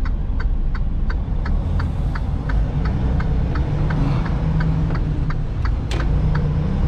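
Turn signal clicking steadily, about three clicks a second, over the low rumble of a semi truck's diesel engine. One sharper click comes about six seconds in.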